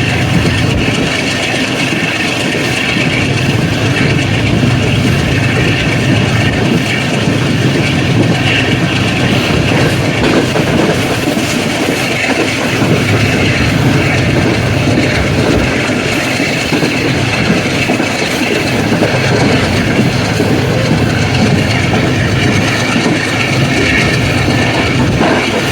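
Train running at speed behind an AGE30 'Blue Tiger' diesel-electric locomotive: a loud, steady rumble of the locomotive and the wheels on the track, with the locomotive's crackling chugging.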